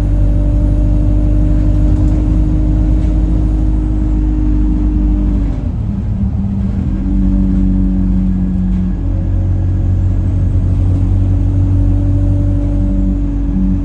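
Alexander Dennis Enviro 200 bus drivetrain giving a strange, horn-like drone over the engine's rumble, heard from on board. The tone falls and then rises back about six seconds in. The uploader suspects the gearbox, as it was much louder towards the front, and the bus felt sluggish.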